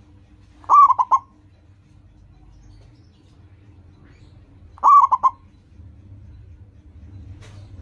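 Zebra dove (perkutut) cooing: two short song phrases about four seconds apart, each a longer coo followed by two quick clipped notes.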